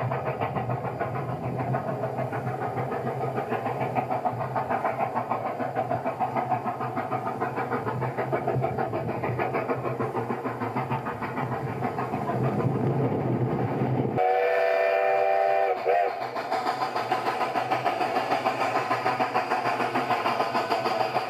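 A railway train running with a steady rhythmic clatter and rumble. About two-thirds of the way through, a brief chord-like warning blast from the train sounds for about a second and a half.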